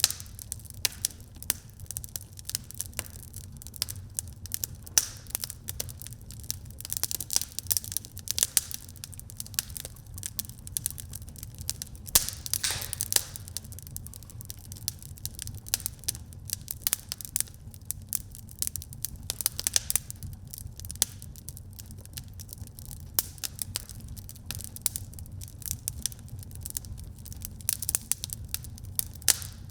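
Wood fire crackling in a fireplace: dense, irregular pops and snaps over a low steady rumble, with a few short stretches of hissing.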